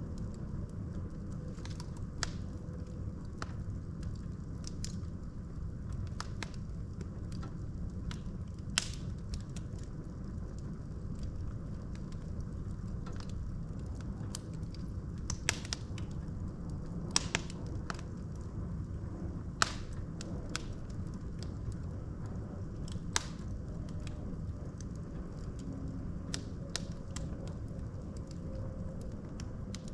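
Wood fire burning in a fireplace: a steady low rush of flames with irregular sharp pops and crackles from the burning logs. A few louder pops stand out in the middle of the stretch.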